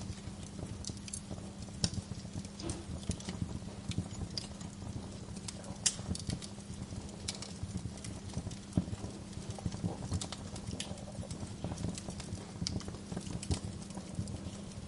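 Wood fire crackling, with irregular sharp pops over a steady low rumble of flame. A couple of the pops, about two and six seconds in, are louder than the rest.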